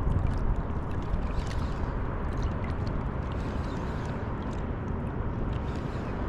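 Seawater sloshing and lapping around a surfboard, with scattered small splashes and drips over a steady low rumble.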